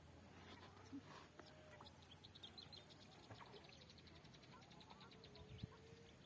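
Near silence with faint, distant bird calls: scattered high chirps and, about two seconds in, a quick run of high ticking notes lasting a few seconds.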